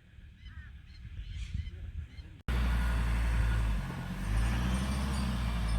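A faint honk from poultry in a quiet yard, then an abrupt change about two and a half seconds in to the steady low rumble of a Ford Ranger's engine running as it tows and backs a caravan.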